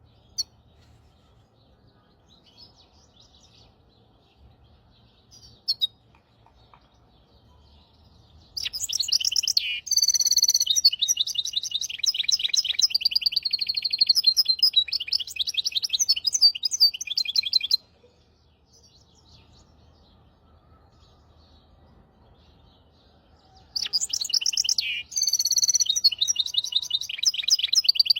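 A hybrid finch (mule) singing in two long bouts of fast, rapidly repeated trills and twitters, with a few soft single chirps before the first bout begins about a third of the way in; the second bout starts near the end.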